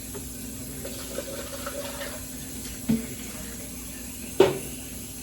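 Kitchen tap running water into the sink, a steady rush, with two sharp knocks about three and four and a half seconds in.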